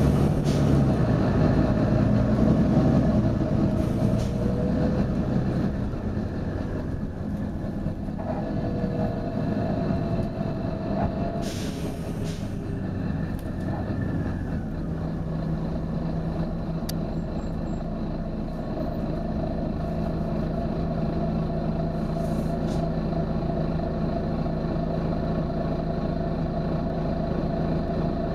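Volvo B9TL double-decker bus's diesel engine running steadily, broken by short hisses of released compressed air from its air system: one about 4 seconds in, a longer one of about a second near the middle, and a faint one later. About halfway through the engine settles into a steady even hum.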